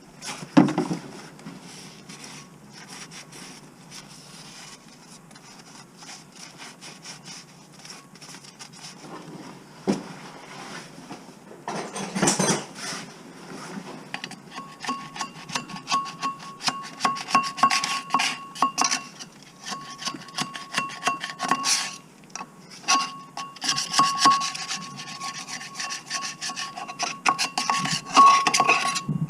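Repeated rubbing and scraping strokes on parts, with scattered clicks and a few knocks; the strokes become faster and denser about halfway through.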